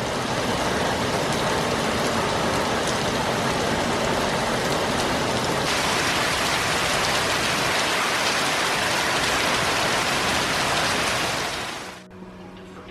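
Steady rain falling, a little brighter and hissier from about halfway through. It fades out near the end, where soft music begins.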